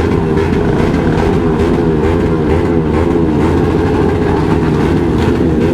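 Several motorcycle engines running together, revving up and down over and over in quick, overlapping swells.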